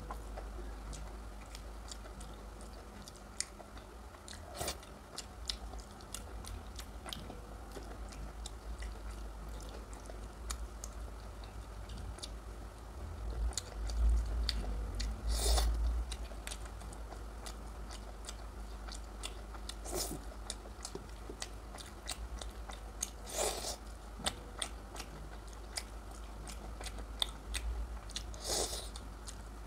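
Close-miked chewing and mouth sounds of a person eating curry and rice, with frequent small wet clicks and a few louder, sharper smacks. Loudest briefly around the middle.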